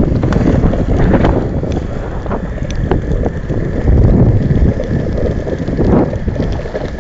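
Loud wind buffeting the microphone of a camera on a moving longboard, a low rumbling noise with scattered small ticks.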